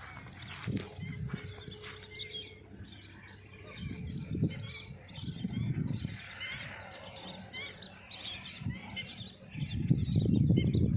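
Many birds chirping and calling at once, short overlapping calls throughout. Bursts of low rumble come and go, the loudest near the end.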